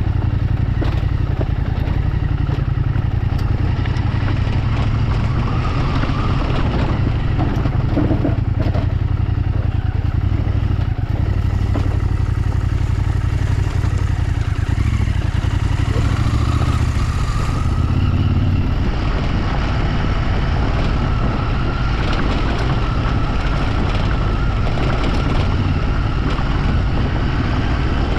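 A motor vehicle under way on an off-road ride: a steady engine drone with a heavy low rumble. A faint whine joins in about two-thirds of the way through.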